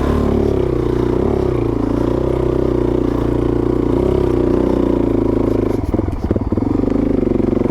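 Suzuki DR-Z400S single-cylinder four-stroke engine running at low speed on a trail climb, its pitch rising and falling with the throttle. About six seconds in it goes briefly choppy and stuttering before settling again.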